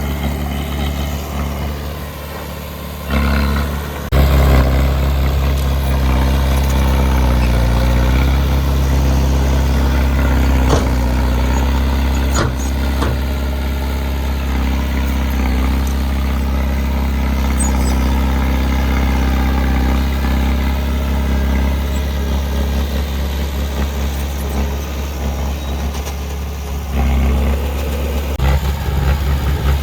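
Diesel engine of heavy earthmoving equipment running steadily at a low, even pitch, getting louder about four seconds in, with a couple of sharp knocks partway through.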